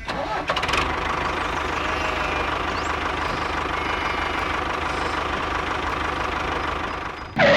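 A small motor running steadily with a constant hum, and a louder sound breaking in right at the end.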